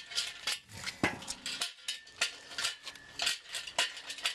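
Irregular light metal clinks and clanks, two or three a second, from metal parts being handled and knocked together.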